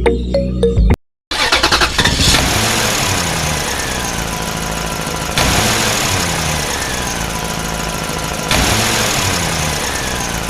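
Engine sound that repeats in a loop about every three seconds, each cycle opening with a sharp burst and falling in pitch. It follows music that cuts off about a second in.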